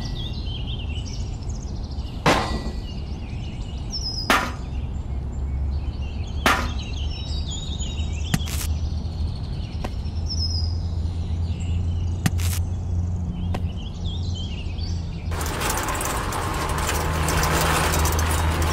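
Outdoor ambience with small birds chirping and a low steady hum, broken by about five sharp taps a couple of seconds apart. About fifteen seconds in, a loud, steady trickling hiss starts as the toy juice machine is cranked and liquid begins to run from it.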